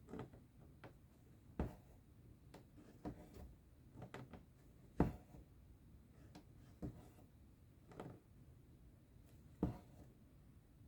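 Cross-stitching needle being pushed and pulled through taut stitching fabric: faint, irregular soft taps, roughly one a second, a few louder than the rest.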